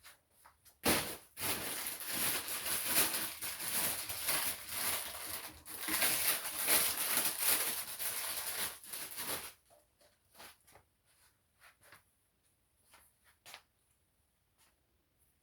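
Rustling and crinkling from something being handled, starting sharply about a second in and stopping abruptly after about eight seconds, followed by a few faint taps.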